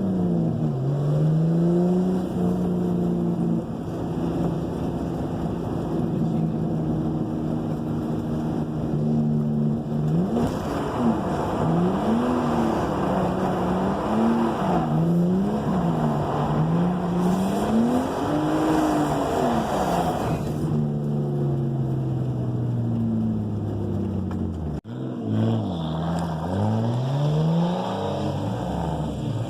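Drift car engine revving hard, its pitch rising and falling again and again as the throttle is worked. A broad hiss joins in for about ten seconds in the middle. Near the end the sound breaks off for an instant.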